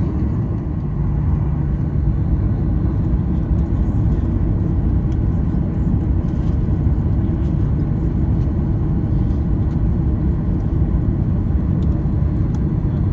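Steady, loud low rumble inside the cabin of a Boeing 737-800, from its CFM56 jet engines and the airframe.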